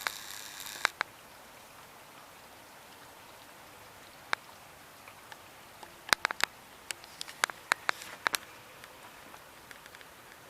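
Rain falling in a soft steady hiss, with scattered sharp drips striking hard surfaces, most of them close together in the second half. A louder hiss cuts off about a second in.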